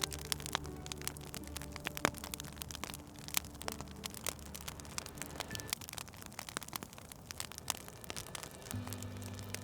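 Wood fire in a fireplace crackling with frequent irregular sharp pops, over soft, low, held musical tones that fade out about halfway through and come back near the end.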